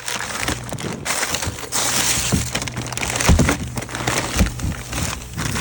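Car parts and their packaging being handled: rustling and crinkling with several dull knocks, over a steady low hum.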